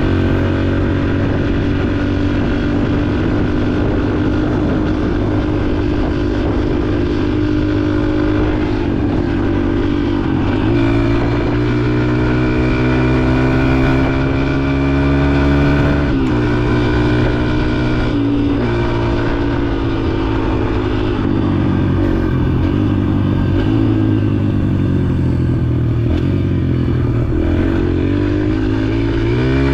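Yamaha dirt bike engine running under way, its pitch rising and falling with the throttle and dropping at several gear changes.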